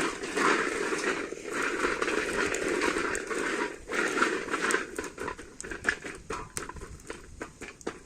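Chestnuts rattling and scraping on a sac, a shallow metal griddle pan, as they are roasted and tossed. The dense rattle runs for about four and a half seconds, then thins to scattered clicks and knocks.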